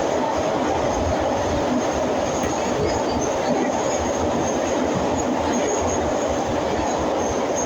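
81-502 metro train running at speed through a tunnel, heard from inside the car: a steady, dense rumble of wheels and running gear, with a faint high squeal coming and going above it.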